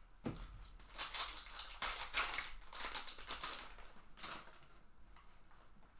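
Trading card pack being handled: a series of rustling, crinkling bursts from the foil wrapper and cards, about one to four and a half seconds in, after a single click near the start.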